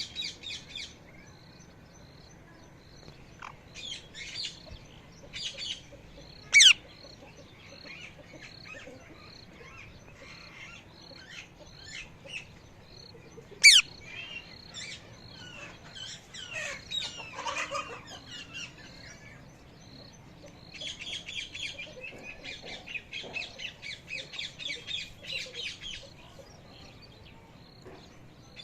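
Parrot calling and chirping: two loud, sharp, high shrieks, one about six seconds in and one about fourteen seconds in, among runs of rapid high chattering. The longest run of chatter comes near the end.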